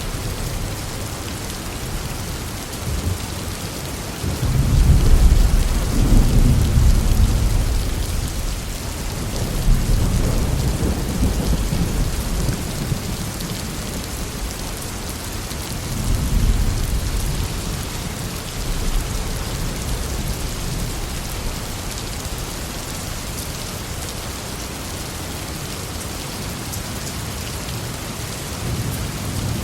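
Heavy steady rain falling, with rolls of low thunder: a long rumble about four seconds in, another around ten seconds, and a shorter one around sixteen seconds.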